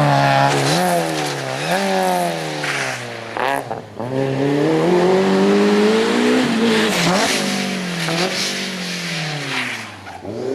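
Rally car engine revving hard, the pitch rising and dropping several times with quick gear changes and lifts, then a long climb in revs. Near the end the pitch sinks and the sound fades as the car moves off.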